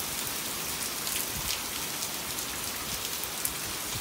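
Steady rain pouring down: a dense, even hiss of falling water with scattered sharper drop ticks.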